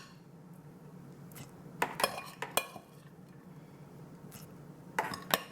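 A kitchen utensil clinking and tapping against a mixing bowl while chopped celery is added: three sharp clinks around two seconds in, then two more close together near the end.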